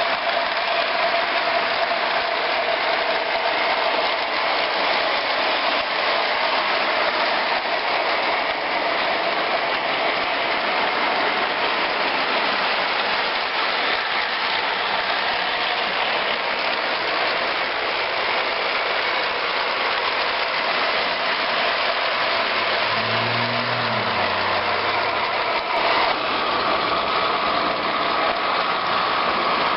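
A train running by: a steady, loud wash of rail and locomotive engine noise. A steady high tone joins it near the end.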